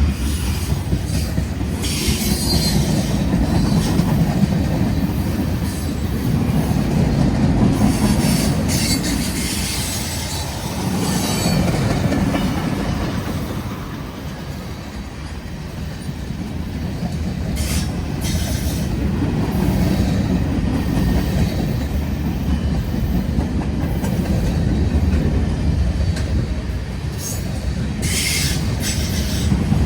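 Freight cars of a CSX manifest train rolling past close by: a continuous rumble of wheels on rail that swells and fades, with clacking over rail joints and several short bursts of wheel squeal.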